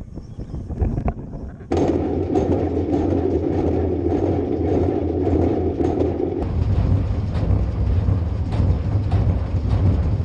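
A tractor engine running steadily, cutting in abruptly about two seconds in after a stretch of irregular rough noise.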